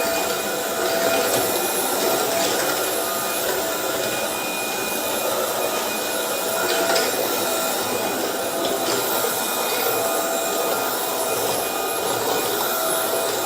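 Roborock Dyad Pro cordless wet-dry vacuum running steadily, a constant motor whine over the rush of its suction and roller.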